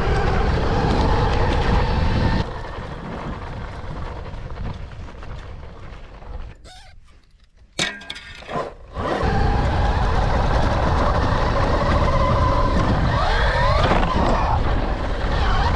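Rawrr Mantis X electric dirt bike riding, with wind rushing over the microphone and a faint electric motor whine. The sound fades over a few seconds to near quiet while the bike is in the air off a tabletop jump. About eight seconds in there is a sharp clatter of impacts as it lands past the tabletop, then the wind noise and motor whine return.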